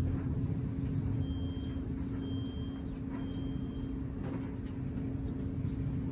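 A steady low rumble with a constant hum. Over it come four short, high, even-pitched beeps about once a second in the first four seconds, and a few faint clicks.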